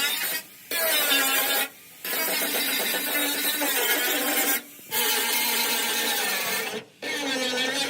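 A power tool running with a steady whine, in several short stretches broken by abrupt cuts.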